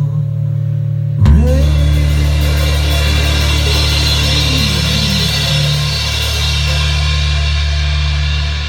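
Heavy metal band music: after a quieter passage, the full band crashes in about a second in with drums, cymbals and distorted electric guitar, and the chord is held, ringing on.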